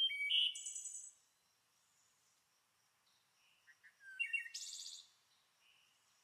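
A songbird singing two short phrases, one at the start and one about four seconds in, each about a second long: a few clear notes followed by a fast, high trill.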